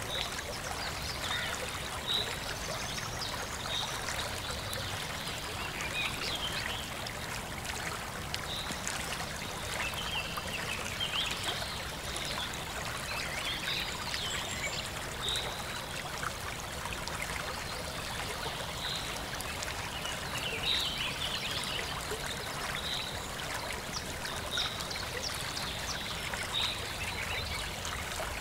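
Babblers calling: a short high note repeating about every two seconds, with stretches of busier chattering, over a steady hiss.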